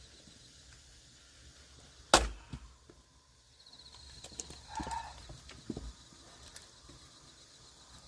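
A single loud axe strike splitting a log of firewood about two seconds in, followed a couple of seconds later by smaller knocks and clatter of wood.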